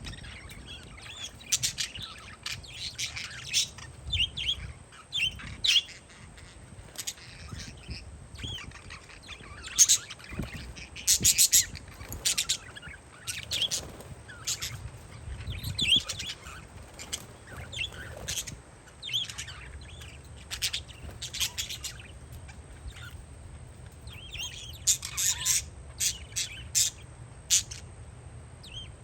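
Parakeets chirping and screeching in many short, sharp calls at irregular intervals, with a low, uneven wind rumble on the microphone underneath.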